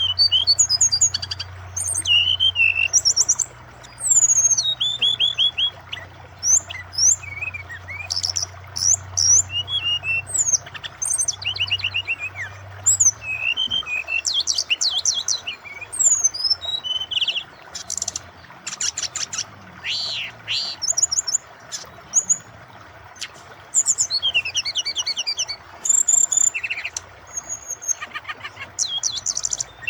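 Brown-chested jungle flycatcher (SRDC) singing a rapid, varied song of chirps, trills and whistling glides in dense phrases, over a steady rush of flowing water. A low hum underlies the first half and then fades out.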